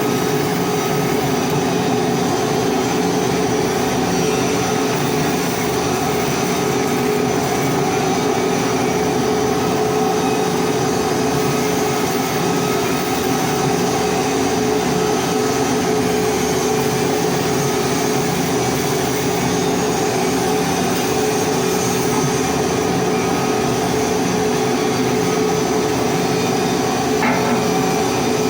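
Welding equipment running during pipe hardfacing: a steady, unbroken mechanical drone with a constant hum.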